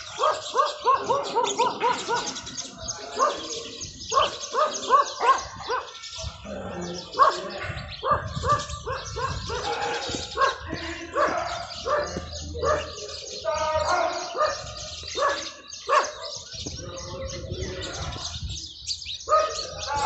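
Several birds calling at once, with runs of short chirps repeated several times a second.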